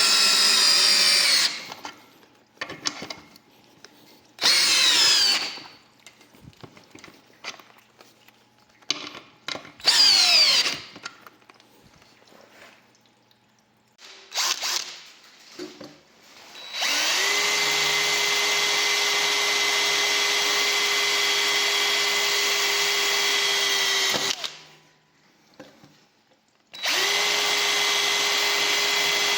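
Parkside PABS 20 Li G8 cordless drill's motor running in three short trigger pulls, its whine falling in pitch as it spins down after each. It then winds up and runs at a steady speed for about seven seconds, stops, and starts again near the end.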